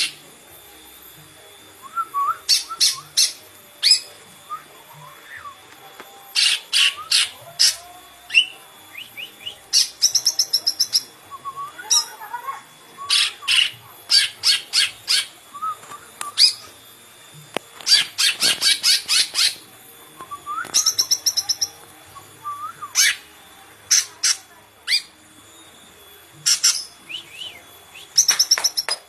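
Cucak ijo (green leafbird) singing: bursts of rapid, shrill chirps and trills separated by short pauses, with an occasional lower whistled note.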